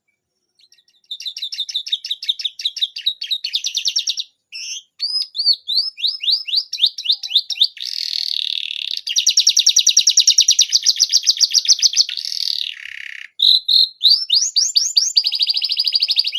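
Domestic canary singing: several phrases of fast, high-pitched trills and quick sweeping notes, with brief pauses between them. The song starts about a second in.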